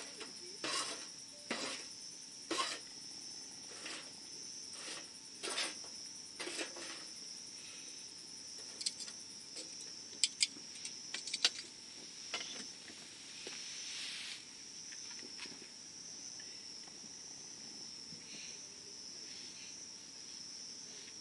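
Wood bonfire crackling, with irregular sharp pops that are frequent in the first seven seconds, come in a quick cluster around ten to twelve seconds in, then thin out. Insects trill steadily and high-pitched behind it.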